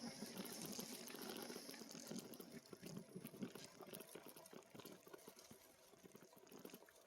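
Near silence: only faint crackling with scattered light ticks.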